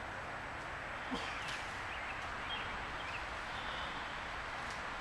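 Outdoor ambience: a steady rustling hiss with a few faint, short bird chirps.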